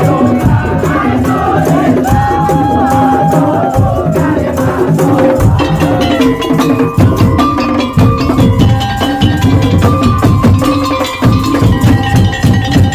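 Madurese tong-tong (ul-daul) ensemble playing loudly: wooden slit drums and drums knocking out a dense, driving rhythm under a line of held melody notes.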